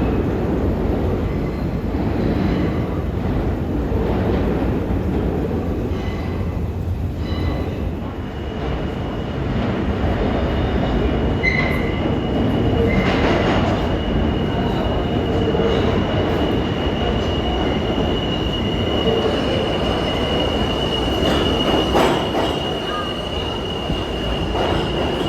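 New York City Subway train running on the rails with a steady rumble, joined about halfway in by a high, sustained wheel squeal.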